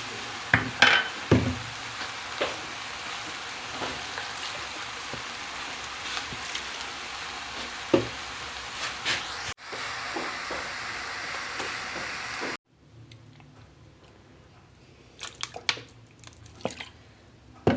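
Fried rice stir-frying in a pan, sizzling steadily, with scattered clicks and scrapes of a spatula. The sizzle cuts off suddenly about twelve and a half seconds in, leaving a few quieter clinks.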